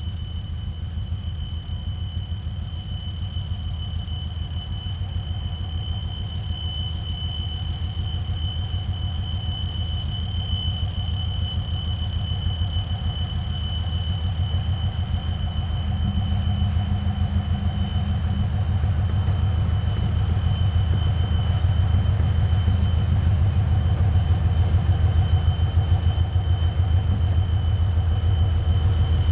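A train running with a steady low rumble that grows slowly louder, with a faint steady high whine above it.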